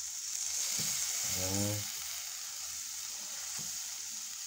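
Diced green peppers and other vegetables frying in oil on a sanded steel locker top heated by a hotplate underneath: a steady high sizzle, a little louder in the first two seconds.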